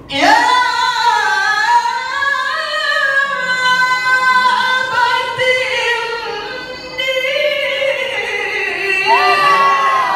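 A male qari reciting the Quran in the melodic tilawah style, his voice strong and high, holding long, ornamented notes that bend and waver between phrases. The recitation starts abruptly at the very beginning.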